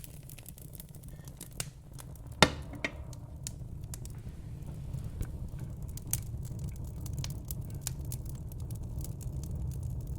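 Fire crackling: irregular small pops and snaps over a low steady rumble, with one sharp, louder pop about two and a half seconds in.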